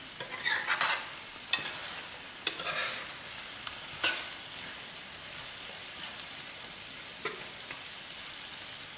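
Potato curry frying in oil and masala in a stainless steel pot, a steady sizzle, while a metal spoon stirs and scrapes through it. A few sharp clicks of the spoon against the pot stand out, loudest about one and a half and four seconds in.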